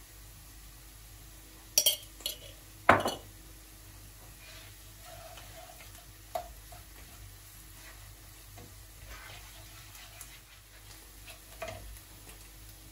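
Kitchen utensils and dishes handled: a few sharp clinks and knocks, the loudest about three seconds in, with light scraping and stirring between.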